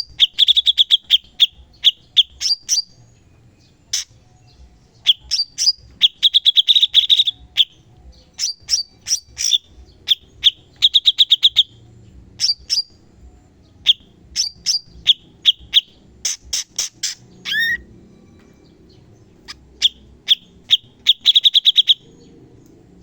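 A cucak cungkok songbird singing in repeated phrases of sharp, rapid chirps and fast trills, each burst lasting a second or two with short pauses between. These are the sharp 'shot' (tembakan) phrases that bird keepers play to train other birds.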